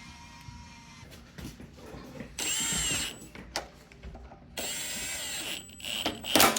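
Power drill/driver run in two short bursts, the first about half a second and the second about a second, each with a high motor whine, then a few sharp clicks near the end.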